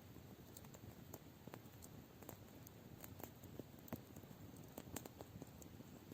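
Wood campfire crackling faintly, with irregular small ticks and a few sharper pops.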